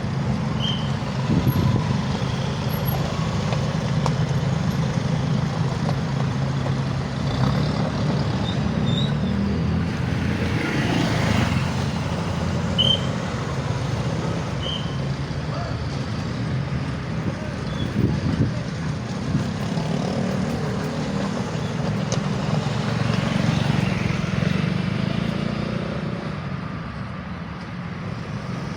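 A large engine running steadily amid traffic noise, with a low rumble throughout and two swells of passing-vehicle noise. A few short high squeaks come through.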